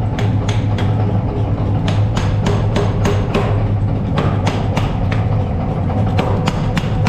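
Hammer blows on hot steel at the anvil, about three strikes a second in short runs with brief pauses, over a steady low hum.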